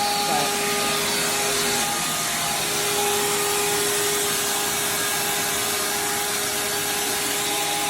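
Wet/dry shop vac motor running steadily with a high whine. Its tank is full of flood water.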